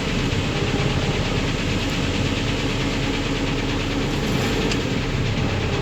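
UMZ-4216 petrol inline-four engine running with a rapid, regular knock, which the mechanic finds very like a worn piston pin.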